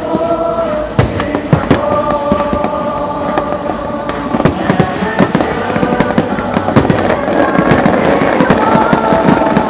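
Aerial fireworks shells bursting in a rapid string of sharp bangs and crackles, coming thick from about a second in. Music with long held notes plays underneath.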